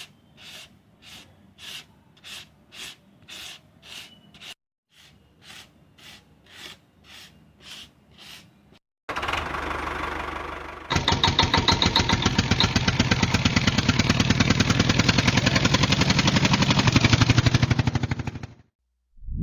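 A run of even strokes, about two a second, then a small motor starting up and running with a loud, rapid buzz before cutting off suddenly near the end.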